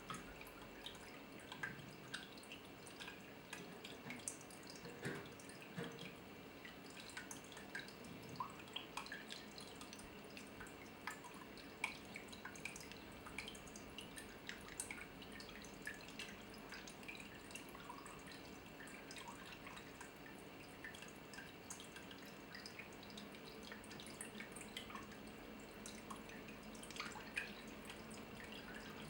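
Water dripping steadily: many small, irregular drips over a faint, steady background.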